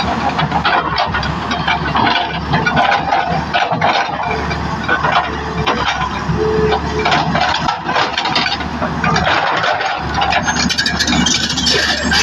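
Diesel engine of heavy road-works machinery running steadily, with irregular metallic clanks and rattles.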